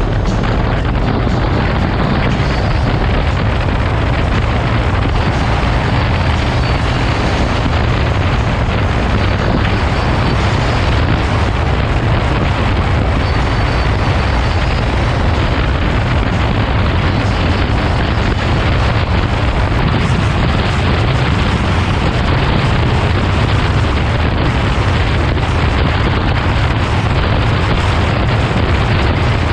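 Heavy, steady wind buffeting on an action camera's microphone at riding speed, over the low, even running of a Harley-Davidson Road Glide Special's V-twin engine.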